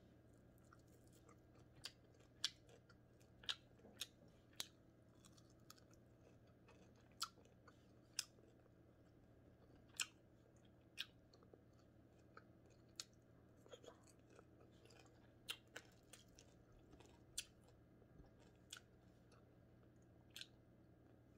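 Close-miked chewing and crunching of crispy fried bigeye scad (matambaka) with rice, eaten by hand: sharp crackles and clicks come irregularly every second or two over a faint steady hum.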